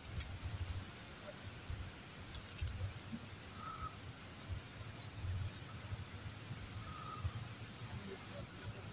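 Faint forest ambience: a low, uneven rumble under a few short, high bird chirps that fall in pitch, and two brief whistled notes.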